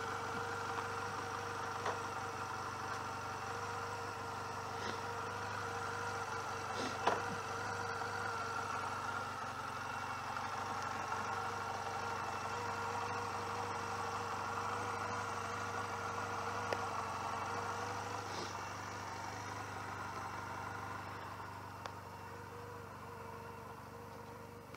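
Honda CMX250C Rebel's air-cooled 234 cc parallel-twin engine idling steadily, with a few light clicks, growing fainter over the last few seconds.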